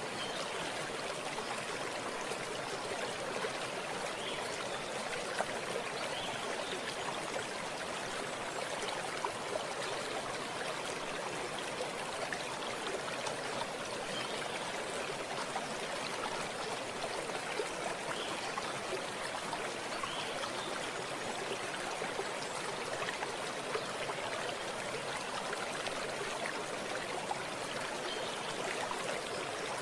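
Stream water running and trickling steadily, an even rush with small splashes and gurgles throughout.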